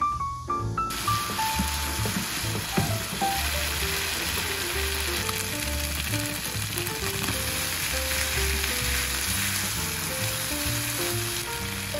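Julienned potato strips and ham sizzling steadily as they are stir-fried in a pan and turned with a wooden spatula, the sizzle starting abruptly about a second in. Background music with a light melody plays over it.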